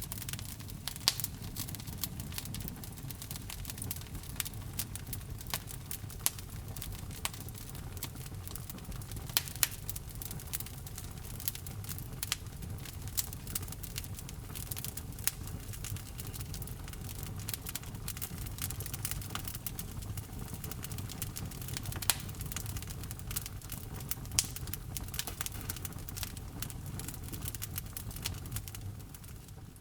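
Fire burning in a fireplace, crackling with frequent irregular sharp pops over a low steady rumble of the flames.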